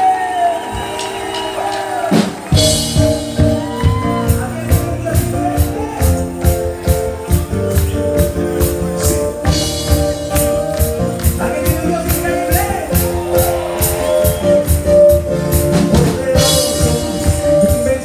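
Live band music with singing. Held chords and voices give way about two and a half seconds in to the full band with a steady, driving beat and bright crashes that recur every several seconds.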